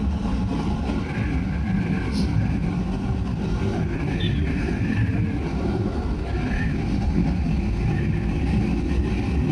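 Motorcycle riding at speed: steady wind rush on the microphone over the running engine of a Bajaj Pulsar 200 NS.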